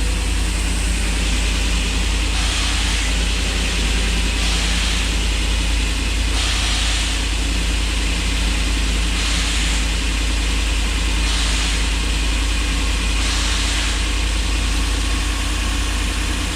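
Ford E350 van's newly installed engine idling steadily, with a hiss that swells and fades every two seconds or so.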